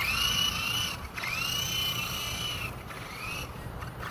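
Small electric motor of a toy RC helicopter whining at high pitch as the throttle is pushed up and let off in three spurts: two longer runs of about a second each, then a short blip near the end.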